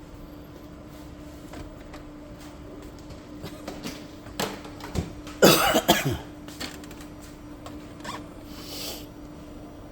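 A person coughs once, loudly, about halfway through, over a steady low hum and a few light clicks.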